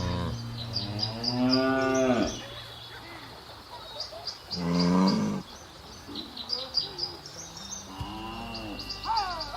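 Cattle mooing three times, each call a second or two long, the middle one the loudest.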